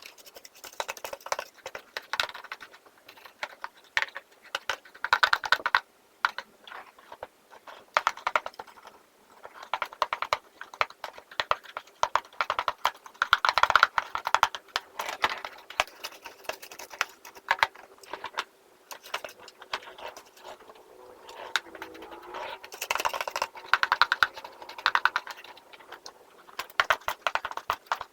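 A hand brush scrubbing dry dust out of the inside of an opened vacuum cleaner: rapid scratchy bristle strokes and light clicks that come in bursts.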